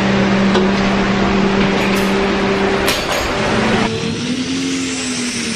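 Car engine held at high, steady revs, with a sharp pop about three seconds in; just before the end the roar drops off suddenly and a lower, wavering engine tone is left.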